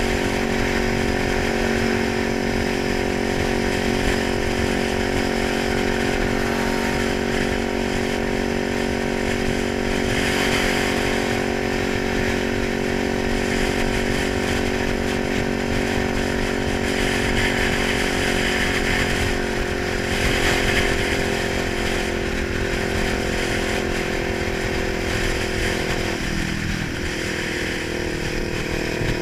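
Kawasaki 900 motorcycle engine running at a steady speed, its pitch sagging a little about two-thirds of the way through and stepping down near the end.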